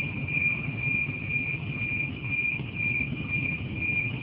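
Insects trilling steadily at one high pitch, with a slight pulsing, over a low rumble.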